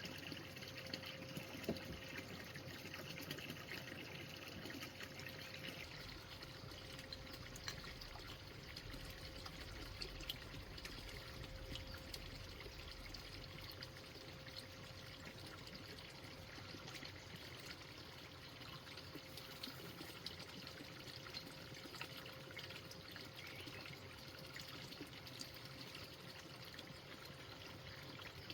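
Faint, steady trickling of running water, with a thin steady hum and scattered small clicks.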